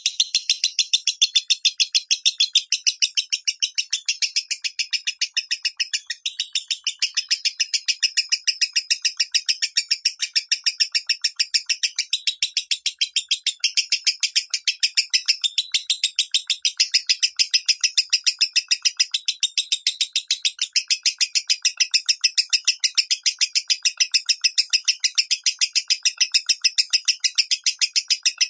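Lovebird singing in the high, thin 'minor' voice: a rapid, unbroken string of shrill chirps, several a second, starting abruptly.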